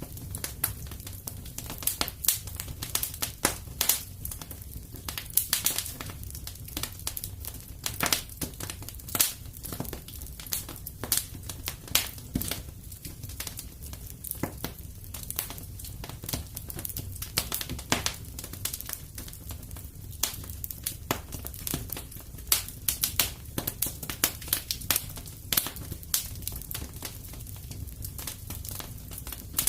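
Wood fire in a fireplace crackling and popping irregularly over a steady low rumble of the flames.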